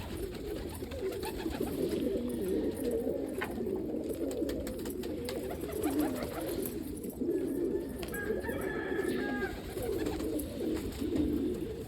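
A flock of domestic pigeons cooing together, a continuous low warbling chorus. About eight seconds in, a rooster crows faintly for a little over a second.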